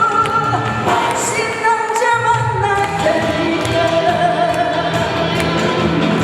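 Song performed with amplified backing music, with sung notes held for a second or more and stepping in pitch.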